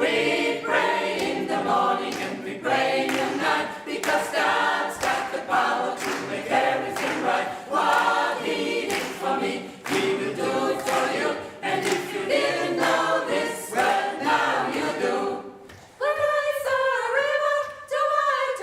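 Gospel choir singing, many voices together in harmony, with a brief lull about sixteen seconds in.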